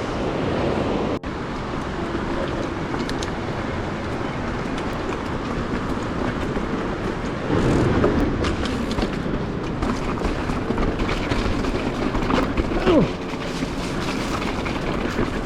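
Mountain bike rattling over a rough, rocky trail: a steady clatter of tyres and frame on rock, with a short falling squeal near the end.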